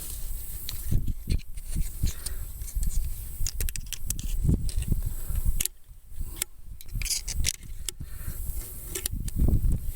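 Hand work on the parts of a hydraulic steering unit: irregular rubbing and scraping with scattered small clicks as seals and small pieces are picked out and handled.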